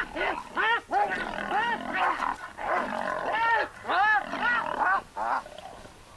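A hyena and a lioness fighting over a carcass: a rapid run of short, high, yelping and snarling calls, each rising and falling in pitch. The calls stop about five seconds in.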